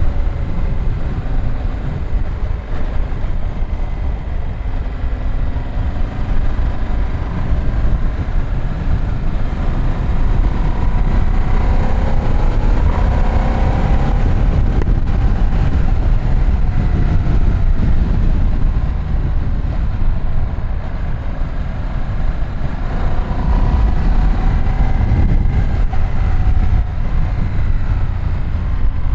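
Ducati Streetfighter V2 S L-twin engine running under way, over a steady low rumble. Its pitch glides up and down as the throttle changes, most clearly twice: midway and again near the end.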